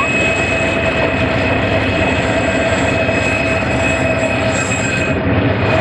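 Diesel-hauled passenger train passing close by as it pulls out, the locomotive's engine running and the carriages rolling over the points and curving track. Steady high-pitched wheel squeal rides over the rumble.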